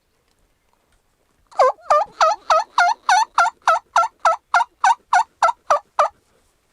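A loud run of about sixteen turkey yelps, evenly spaced at about three and a half a second, each note dipping in pitch and coming back up.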